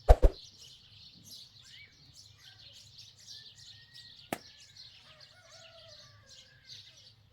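Birds chirping steadily, with two sharp knocks right at the start and a single sharp click about four seconds in.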